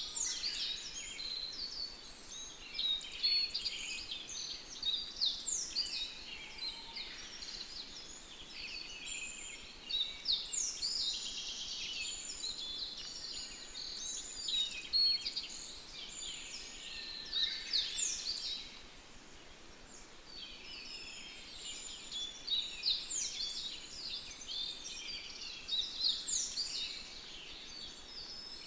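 Several songbirds singing at once, a dense chorus of high chirps and quick falling whistles over a faint steady hiss, easing off briefly about two-thirds of the way through.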